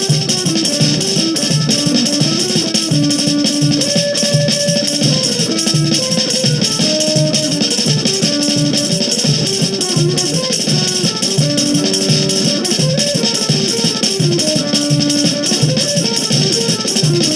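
Instrumental Brazilian carnival music: a bandolim (Brazilian mandolin) plays a quick, stepping melody over a steady, even percussion beat.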